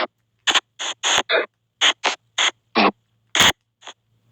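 SP White Noise box spirit-box app sweeping: short choppy bursts of hiss and clipped voice-like fragments, about two a second, with silence between them.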